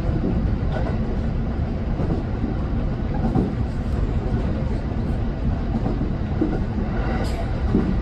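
Kintetsu electric train running along the line, heard from inside just behind the driver's cab: a steady rumble of wheels and running gear with a few faint clicks.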